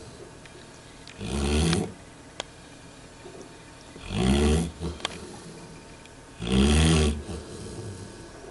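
A dog snoring in its sleep: three pitched snores, one every two to three seconds, each lasting under a second.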